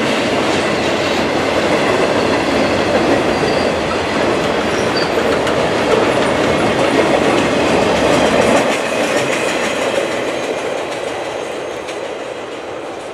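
Freight train of flatcars loaded with trailers rolling past, steel wheels running on the rails in a loud, steady rumble. The noise fades over the last few seconds as the cars pull away.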